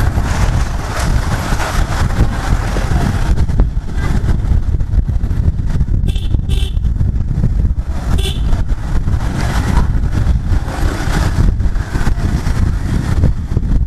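Continuous rumble of a Bajaj Pulsar 150's single-cylinder engine and road noise while riding, with a vehicle horn tooting briefly about six seconds in and again around eight seconds.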